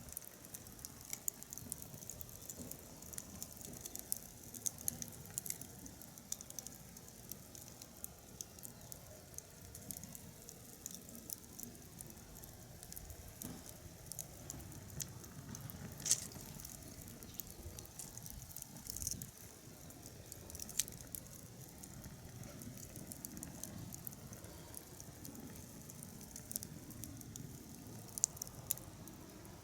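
Wood fire crackling: irregular sharp pops and snaps of burning firewood over a low, steady rush of flame. One louder pop comes about halfway through.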